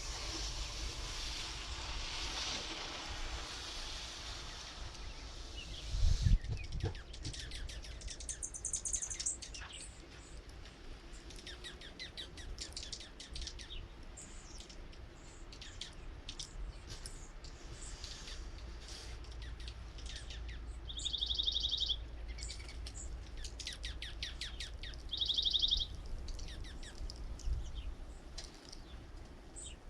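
Small birds at a feeder chirping and calling, with many short high chirps and three short buzzy trills, the louder two in the second half. A rushing noise fills the first few seconds and a low thump comes about six seconds in.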